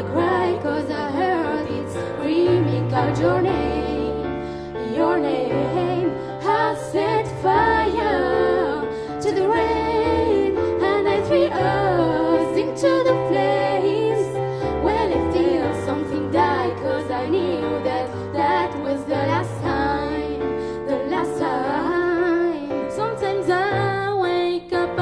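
Two singers performing a vocal duet over instrumental accompaniment with sustained low chords, the sung lines gliding and bending in pitch.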